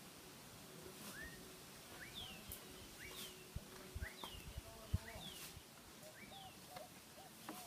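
A bird calling over and over: a short high falling note about once a second, each paired with a quick rising note, with lower short notes near the end. A few soft low knocks fall around the middle, the loudest about five seconds in.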